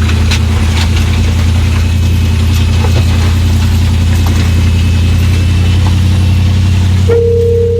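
Truck engine running steadily at low speed. About seven seconds in, a steady single-pitched electronic beep starts and holds.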